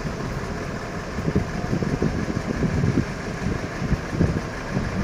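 Heavy truck's diesel engine running at low revs, mixed with outdoor road noise.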